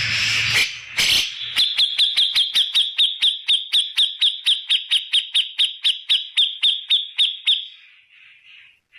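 Cucak jenggot (grey-cheeked bulbul) singing a loud rapid-fire run of about thirty sharp, identical notes at roughly five a second for about six seconds, after a brief harsh, noisy call at the start.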